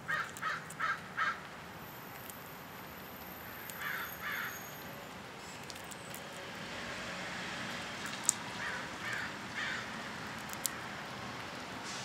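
Bird calling in short repeated calls: four quick ones at the start, two about four seconds in, and three more about nine seconds in. Two sharp clicks fall between the later calls.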